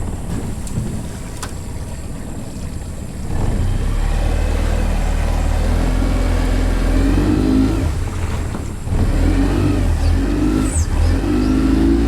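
Small outboard motor running as the boat gets under way. It gets louder about three seconds in, and its pitch rises and falls with the throttle over a heavy low rumble.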